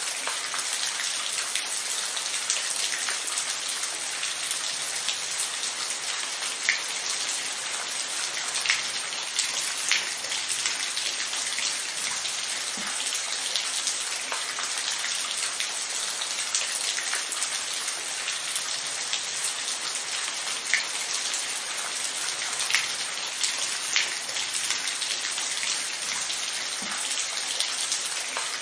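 Steady rain: a dense, even hiss of falling drops, with scattered louder single drop strikes now and then.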